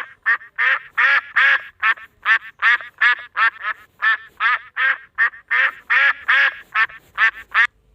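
A duck quacking over and over in a rapid run, two to three quacks a second, which stops abruptly near the end.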